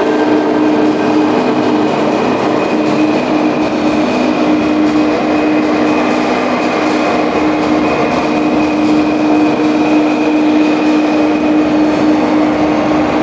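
Steady vehicle running noise with a low held tone and a fainter high one, unbroken throughout.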